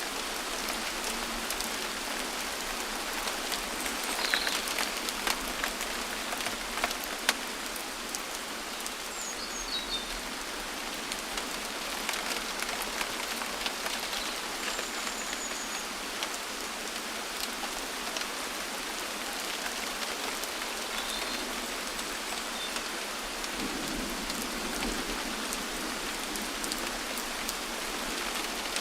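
Steady rain falling, with many separate drops landing close to the microphone.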